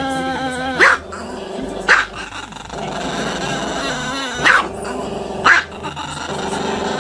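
Small black-and-tan dog howling with its muzzle pointed up: long wavering howls, broken four times by a short sharp yip or bark.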